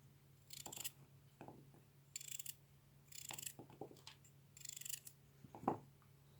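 Small knife cutting a carrot: four short, hissy slicing strokes with light clicks between them, and a single sharper knock near the end.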